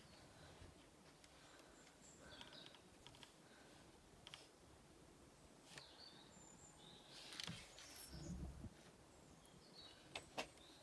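Faint outdoor quiet with small birds chirping now and then, broken by scattered light clicks and taps, a dull low thump about eight seconds in, and two sharper clicks near the end.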